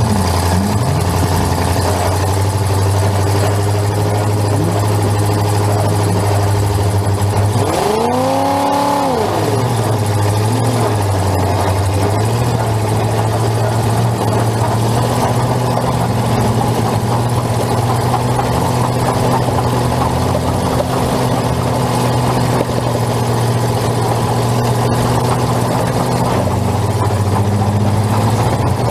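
Full-size demolition derby car's engine running hard, heard from inside the stripped cabin. It revs up and back down about eight to ten seconds in.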